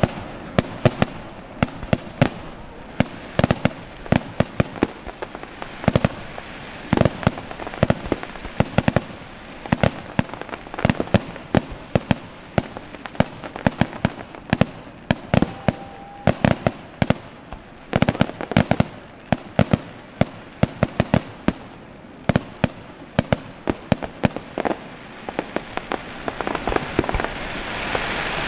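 Fireworks display in full barrage: a rapid string of sharp shell bursts, several bangs a second, building near the end into a dense crackling hiss.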